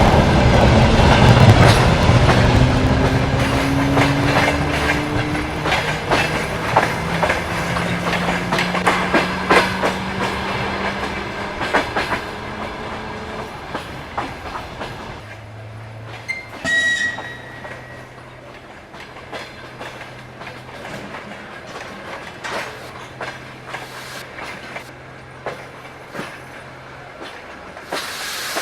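Commuter train pulling away from the platform: its motors give a whine that rises in pitch as it speeds up, and the wheels clack over the rail joints, fading as it leaves. A brief high tone comes about halfway through, then only a faint steady hum.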